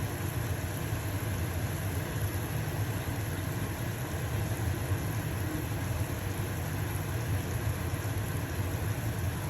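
Stove-top exhaust fan running with a steady low hum, over the sizzle of a pancake frying in a pan.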